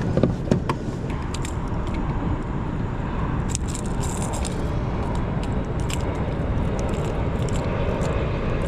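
Motorboat engine running steadily as a boat passes close by, growing slightly louder toward the end. A few clicks and knocks in the first second.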